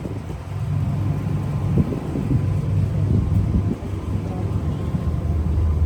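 Tour boat's engine droning steadily at slow cruising speed.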